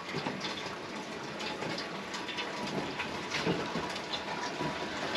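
Steady rain falling, with scattered small drip ticks.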